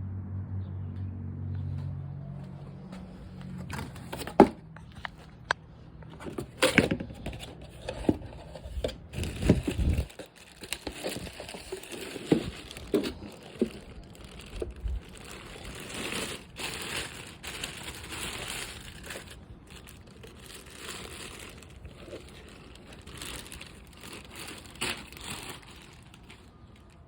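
Cardboard box and plastic packaging being opened and handled: crinkling and rustling with irregular sharp clicks and knocks, loudest in the first ten seconds.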